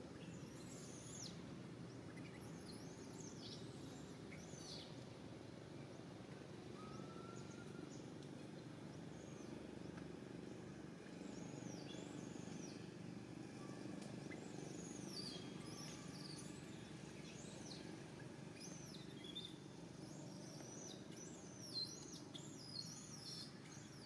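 Birds chirping, many short high calls that arch and fall in pitch, coming in clusters over a faint steady low background noise.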